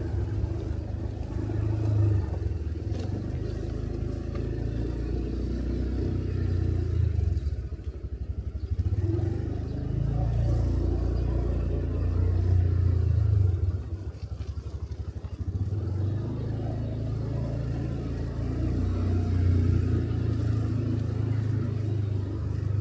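Motorcycle engine running with the throttle opening and closing. It drops back to low revs twice, where its separate firing strokes come through, then picks up again.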